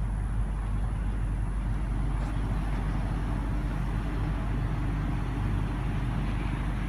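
A motor vehicle engine idling steadily, giving an even low rumble, with a faint thin high whine held throughout.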